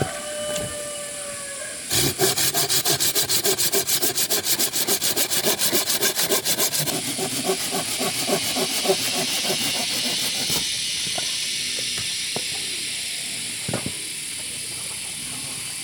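Wood being sawn by hand in quick, even rasping strokes, about five a second, starting about two seconds in; after about seven seconds the strokes give way to a softer steady hiss that fades near the end.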